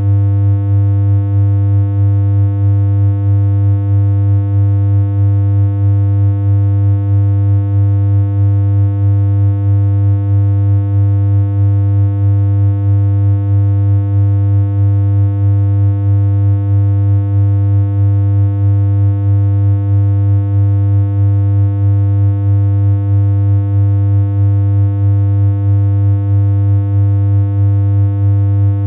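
Steady synthesized electronic hum: one low, unchanging tone with a stack of overtones, made in BeepBox.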